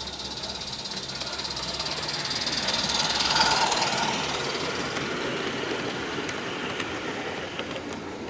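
Small Roundhouse 16 mm-scale live-steam locomotive running past with its wagons: a busy mix of exhaust and wheels clicking over the track that grows loudest about three and a half seconds in, then eases off.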